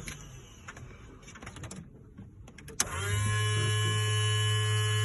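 Scattered small clicks. About three seconds in comes a sharp click, and then a steady low hum with a steady whine above it starts up and holds.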